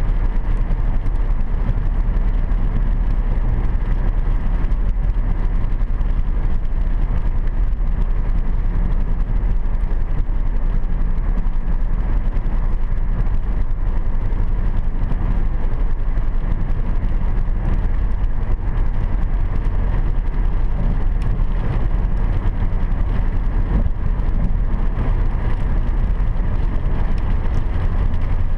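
Steady road and engine noise inside a car's cabin at highway speed, a low rumble with the hiss of tyres on a road wet from rain.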